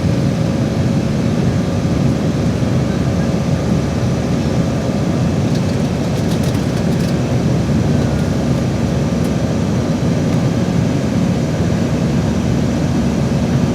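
Steady roar of an Airbus A319-112's CFM56 turbofan engines and rushing air, heard inside the passenger cabin as the airliner climbs after takeoff, with faint steady tones over a deep, even rumble.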